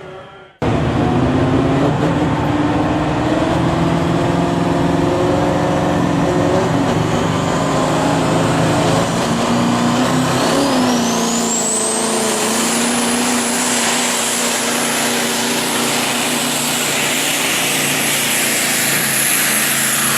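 Modified semi truck's diesel engine running hard under load during a sled pull. The sound cuts in abruptly just after the start. About halfway through, the engine's pitch dips and a high whine rises over a couple of seconds and is then held.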